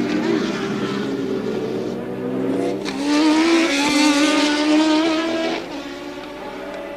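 1983 Formula One race car engines running at racing speed. One car's engine note rises in pitch and grows louder about three seconds in, then falls away near the end as the car passes.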